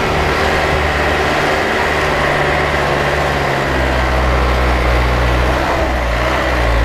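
Truck engine running steadily with a deep, low note that grows stronger about three and a half seconds in.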